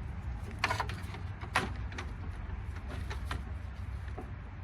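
Several short, sharp clicks and knocks of metal parts and tools being handled on a lawnmower, over a steady low rumble.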